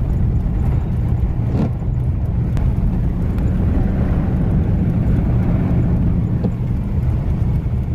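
Steady engine and road rumble of a car driving on a highway, heard from inside the cabin.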